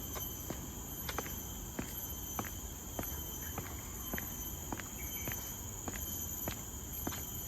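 Footsteps of a person walking at an even pace, about one step every half second or so, over a steady high-pitched drone of insects.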